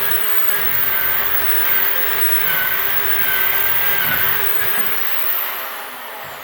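A power tool running loud and steady, then its motor winding down with a falling whine near the end.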